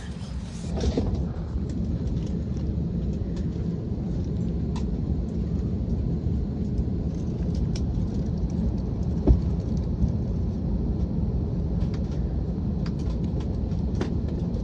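Steady low rumble of an Airbus A321 airliner cabin on the ground, with scattered light clicks and a single thump about nine seconds in.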